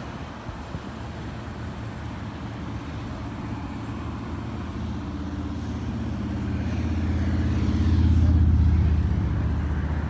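A motor vehicle's engine approaching and passing close by, building up and loudest about eight seconds in, over steady traffic noise.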